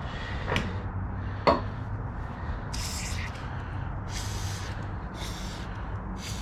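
Two sharp metallic clicks of a wrench on a rusted bolt. Then four short hissing bursts of an aerosol can of penetrating oil being sprayed onto the seized bolt.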